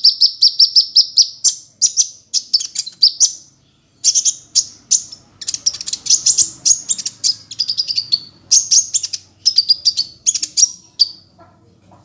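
A songbird singing a loud, high-pitched song: a fast even string of chirps, about eight a second, then broken phrases of chirps and trills with short pauses between them. This is a masteran recording used to tutor caged competition songbirds.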